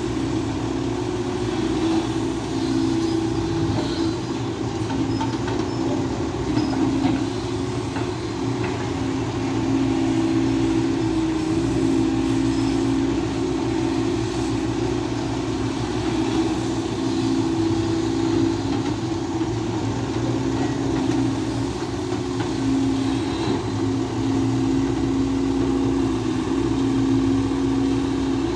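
SANY SY215C hydraulic excavator working, its diesel engine and hydraulics running steadily under load with a continuous droning hum that swells slightly now and then.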